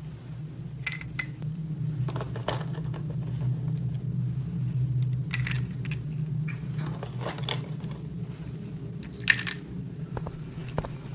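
Small hard plastic toy pieces clicking and clattering as they are handled, with one sharper click about nine seconds in, over a steady low hum.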